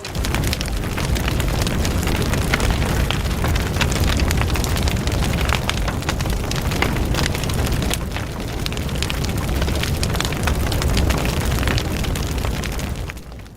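Bonfire crackling steadily with many small pops over a constant low rumble.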